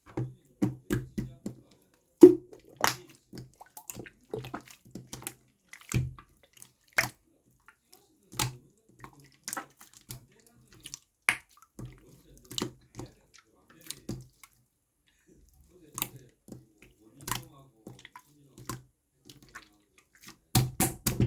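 Pink slime being squeezed and pressed by hand, making a run of irregular wet clicks and pops, thickest near the end.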